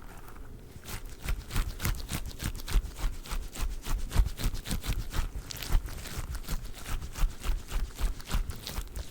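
Squishy durian stress toy handled close to the microphone: a fast, irregular run of soft clicks and taps, several a second, with low thumps.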